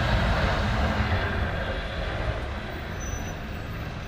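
A motor vehicle running: a steady low engine rumble with road or wind noise, slowly easing in loudness.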